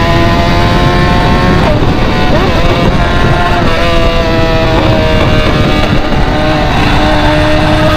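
A BMW's engine heard through an open, straight-piped exhaust while under way. The exhaust note climbs slowly, dips and wavers about two seconds in as the throttle eases, then holds fairly steady.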